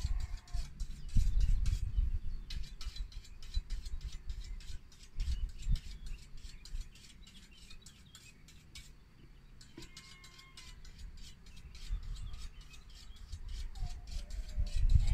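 Rural outdoor ambience: short chirping bird calls come and go over a dense, rapid dry clicking, with an uneven low rumble from wind on the microphone.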